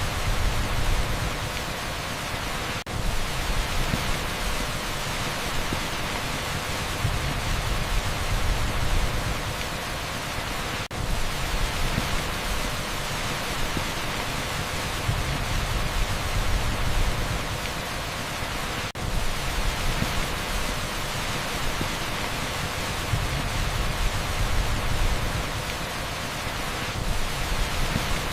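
Torrential rain pouring onto an asphalt street: a dense, steady hiss with a low rumble that swells and fades every few seconds. The sound dips briefly about every eight seconds.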